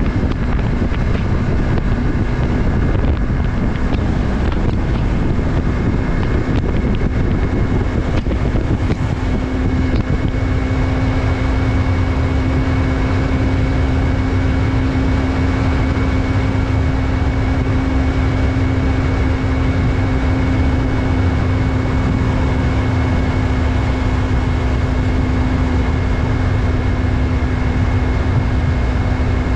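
Yamaha MT-03's 321 cc parallel-twin engine running at a steady speed while the motorcycle cruises, with wind noise on the microphone. The engine note holds nearly constant throughout.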